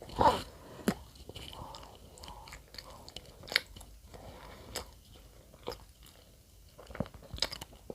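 Close-miked chewing of bread, with sharp crunches and mouth clicks scattered through, the loudest just after the start.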